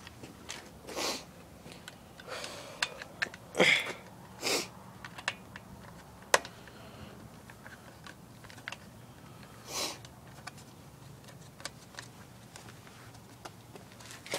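Intermittent small clicks, clinks and rustles of tools and parts being handled while rummaging for a lost socket, with a few short breathy noises; the sharpest click comes a little after six seconds in.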